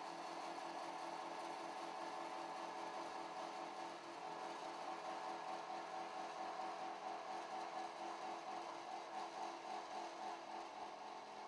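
BTM 71 51 ADS CNC 3000 sawing machine running: a steady mechanical hum with a fast, even pulsing.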